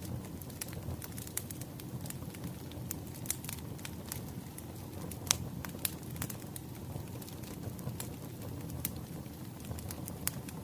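Wood fire crackling: a steady low rush of flames with irregular sharp pops and snaps, the loudest about five seconds in.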